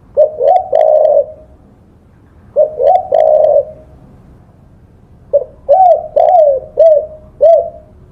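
Spotted dove (tekukur) cooing: three phrases of low coo notes, the last a longer string of about five separate notes.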